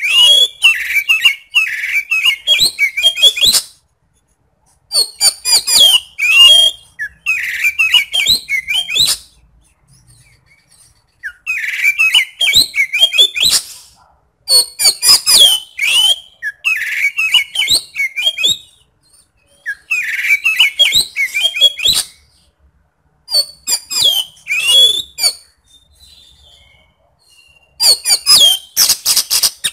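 Oriental magpie-robin (kacer) singing loudly in bursts of a few seconds separated by short pauses. Each burst is a rapid run of high, quickly rising and falling notes mixed with harsh, rough filler notes.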